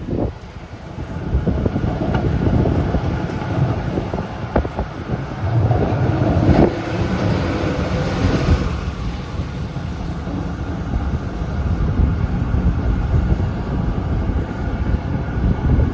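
Z3 class tram running along the track: a steady rumble of wheels on rails, with a couple of sharp knocks a few seconds in and a brief hiss about eight seconds in.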